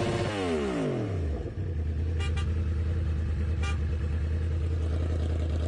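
A vehicle engine whose pitch falls over the first second and a half, then runs at a steady low drone. Two short beeps come through about two and a third seconds in and again near four seconds.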